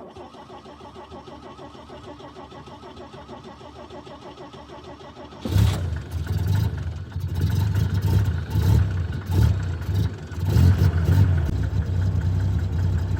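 A 1965 Chevrolet C50's 292 cubic inch inline-six being cranked over by the starter in an even rhythm for about five seconds, then catching and starting. It runs with uneven surges in speed, steadying toward the end.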